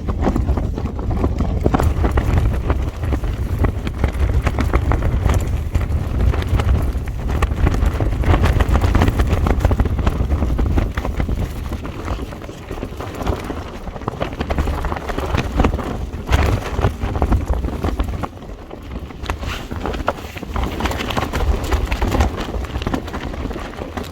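Strong wind gusting against a tent and over the microphone, a heavy rumble that swells and eases, with the tent fabric flapping and rattling throughout.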